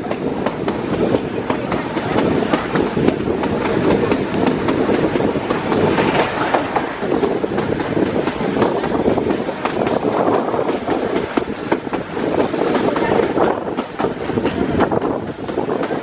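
A train running along the track: a steady rumble of the moving carriages with many sharp clicks of the wheels over the rails.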